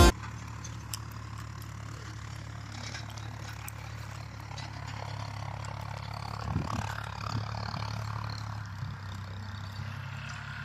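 An engine running steadily with a low hum, with a few light clicks over it.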